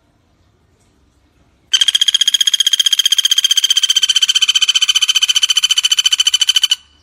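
Pelatuk bawang woodpecker giving one long, fast trill of rapid, evenly repeated high notes. It starts about two seconds in, lasts about five seconds and stops suddenly.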